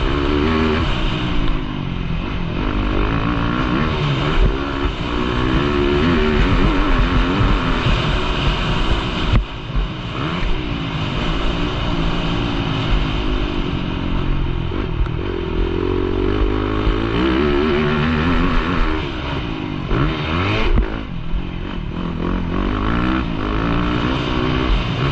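Motocross bike engine revving up and down as the rider works the throttle and gears, its pitch rising and falling over and over. The throttle drops off briefly about nine seconds in and again about twenty-one seconds in.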